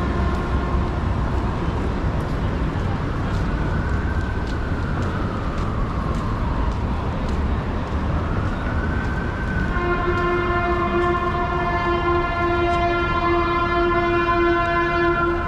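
Emergency vehicle siren in a slow wail, rising and falling, over low city traffic rumble; about two-thirds of the way in, a steady air horn joins and holds to the end.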